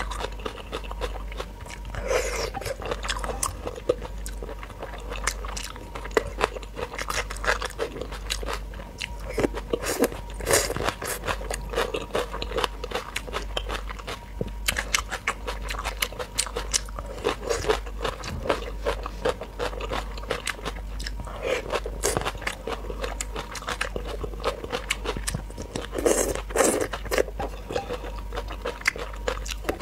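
Close-up mouth sounds of someone eating spicy marinated raw shrimp and cucumber: wet chewing, crunching and many small mouth clicks.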